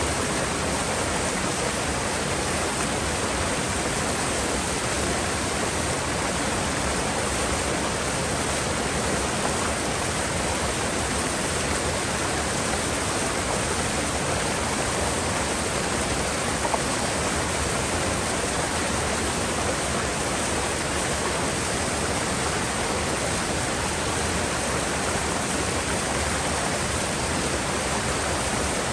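Mountain river rushing over rocks in a gorge: a steady, unbroken rush of water.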